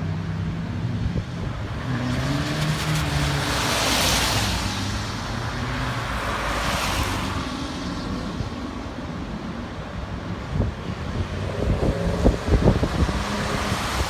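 Cars driving past on a wet road: engines running, with a swell of tyre-spray hiss about four seconds in and again about seven seconds in. A run of sharp pops comes near the end.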